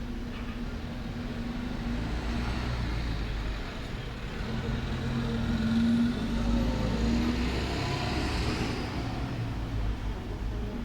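A road vehicle passing by: a low rumble that swells to its loudest about halfway through, with its pitch dropping as it goes past, then eases off.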